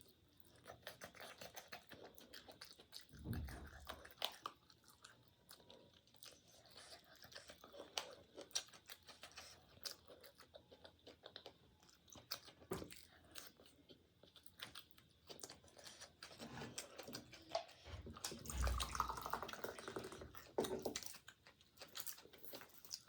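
Close-up chewing and crunching of food, with many small wet mouth clicks and smacks. A couple of low thumps stand out, one about three seconds in and another in the later part.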